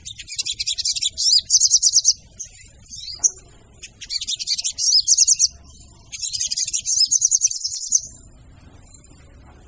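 Sogon birds calling in fast, high, rattling trills, four bursts of one to two seconds each with short gaps, falling quieter near the end. This is the female sogon's call used as a lure for wild males.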